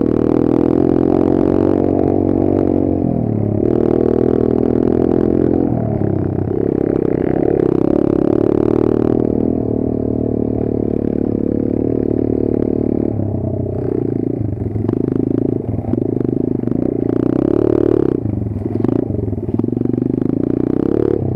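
Kayo 140 pit bike's single-cylinder four-stroke engine running under load, its revs rising and falling with the throttle. Revs drop off briefly about three and six seconds in. From about the middle on, the throttle comes in short, uneven bursts.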